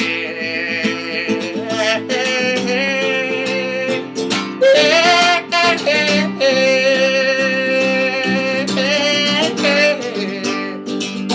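Acoustic guitar strumming chords, with a held, wavering melody line sliding between notes over it: the instrumental break of the song.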